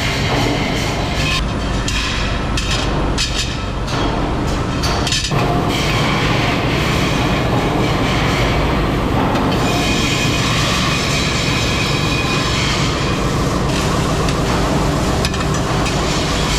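Loud, steady metalworking machinery running in a wheel-rim factory, with metallic clanks and clatter during the first five seconds or so.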